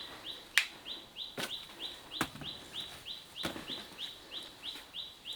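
A bird's short, high, rising chirp repeated evenly about three times a second, cut across by several sharp knocks, the loudest about half a second in.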